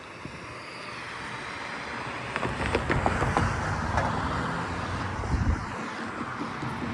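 A road vehicle approaching and driving by, its tyre and engine noise swelling over the first two to three seconds and then holding.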